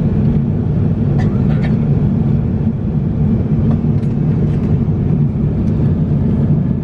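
Airliner cabin noise in cruise inside an Airbus A350-900: a steady low rush of airflow and engines, with a few faint clicks.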